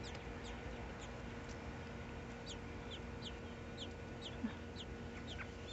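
A small bird chirping steadily: short, thin, high chirps, each sliding downward, about two to three a second, over a low steady hum.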